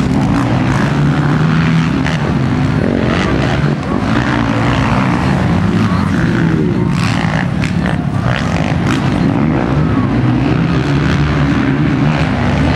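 Several motocross bikes' engines running hard, their pitch rising and falling as the riders rev and shift through the course.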